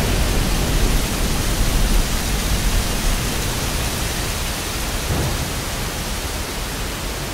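Heavy rain falling, a steady hiss with a deep low rumble under it, slowly getting a little quieter.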